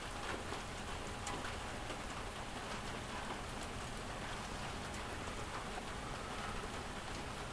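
Steady rain pouring on a motorhome roof, heard from inside, with the faint ticks of single drops through it.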